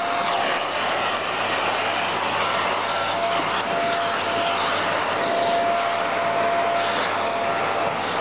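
Vacuum cleaner running steadily: a constant rushing noise with a faint whine that comes and goes.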